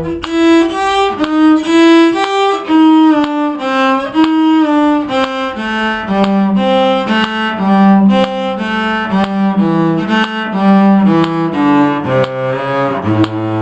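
A bowed string instrument playing a fiddle-tune melody by ear, a quick run of separate notes stepping up and down, ending on a held low A.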